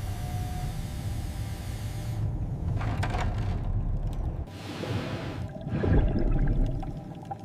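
Low, steady rumble with rushing water, a metallic clank about three seconds in, then a surge of hissing water and a heavy thud near the end.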